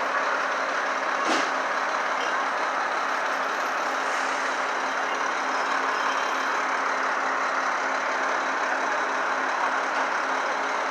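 Heavy trucks idling: a steady diesel engine hum with a single short knock about a second in.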